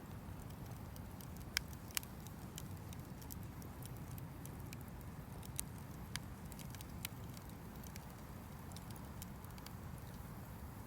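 Wood campfire crackling: irregular sharp pops and ticks, two louder ones about a second and a half and two seconds in, over a low steady rumble.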